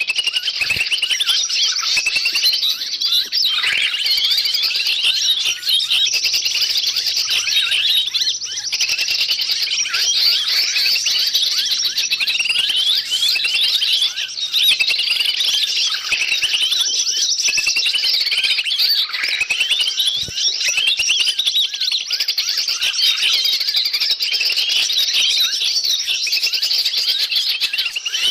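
Dense, noisy chorus of many small birds chirping and calling at once in quick, overlapping high-pitched notes, with no let-up. This is a 'pikat ribut' bird-lure recording of agitated birds, played to draw wild forest birds in.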